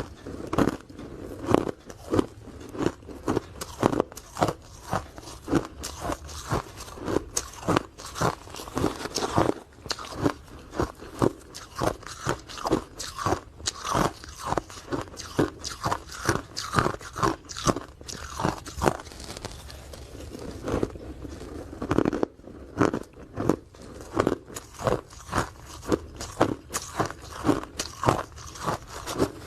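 Ice being bitten and chewed close to the microphone: a steady run of sharp, irregular crunches, about two or three a second.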